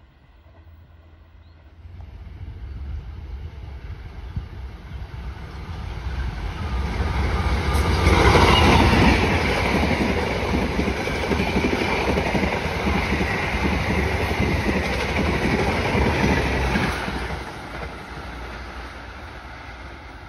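Diesel-hauled passenger train passing close by. It builds as it approaches and is loudest about eight seconds in as the locomotive goes past. A steady run of coach wheels on the rails follows, then the sound drops away from about seventeen seconds as the train recedes.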